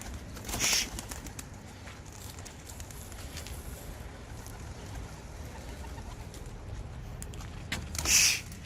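Young homing pigeons flapping their wings in two short bursts, one about a second in and a louder one near the end. The birds are exercising to strengthen their wings before they fly free.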